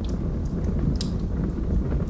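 Wood fire burning in a fireplace: a steady low rumble of flames with a few sharp crackles and pops from the logs, the loudest about a second in.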